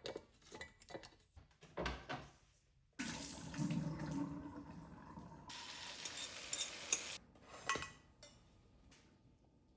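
A kitchen tap running into a sink for about four seconds, starting and stopping abruptly, with light clinks of dishes before and after it.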